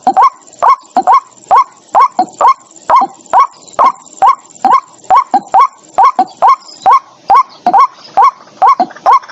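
White-breasted waterhen calling: a steady run of loud, harsh notes that hook upward in pitch, about three a second, some in quick pairs. It is the bird's monotonous territorial call, the kind played as a lure.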